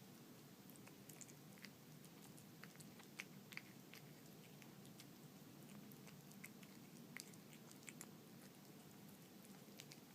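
A cat eating canned wet food with small dried fish in it: faint, irregular chewing and lapping clicks, with a couple of slightly louder ones about three and a half seconds in.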